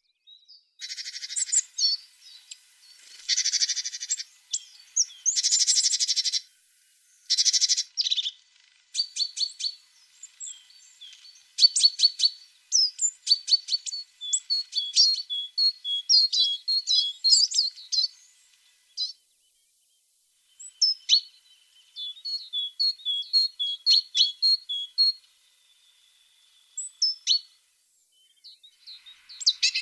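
A tit singing: a few quick buzzy trills in the first eight seconds, then a long run of short high chirps, with a brief pause about two-thirds of the way through.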